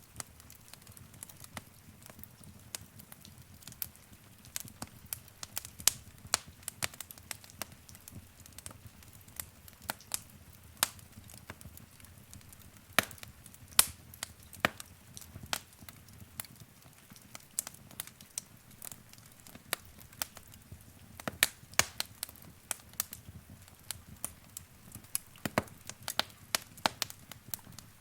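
Wood fire crackling in a fireplace: irregular sharp pops and snaps from the burning logs over a low, steady rumble of the flames.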